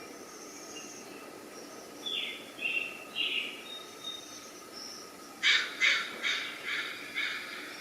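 Birds calling: faint high whistles and a few short chirps, then a run of about six loud, harsh calls starting about five and a half seconds in, each weaker than the last.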